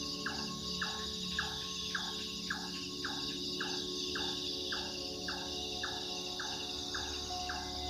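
A night bird calling over and over, about two short calls a second, each dropping in pitch, over a steady chorus of crickets and other insects.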